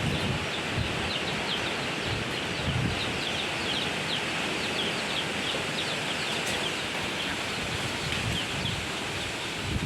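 Strong wind blowing and rustling through foliage, with low gusty rumbles, while a bird chirps over and over in short, high, falling notes.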